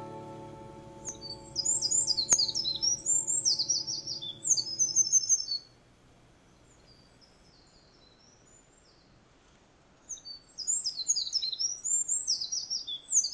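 A small songbird singing two bursts of rapid, high-pitched twittering phrases, each a few seconds long, with a few seconds of quiet between them. Held acoustic guitar notes fade out under the first burst.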